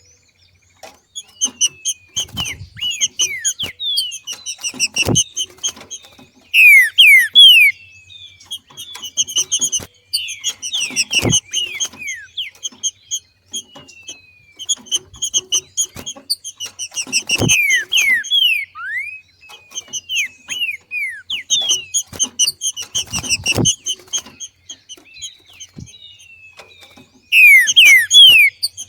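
Green-winged saltator (trinca-ferro) giving its 'macheado', repeated bursts of quick chattering notes, many of them falling in pitch. The loudest bursts come about seven seconds in and again near the end.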